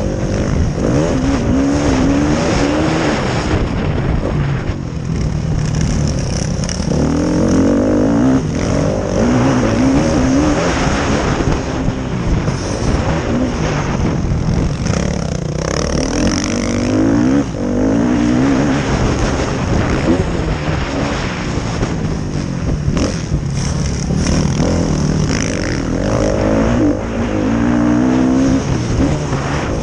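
Motocross motorcycles racing, engines revving up and falling back again and again as riders accelerate and shift around the track.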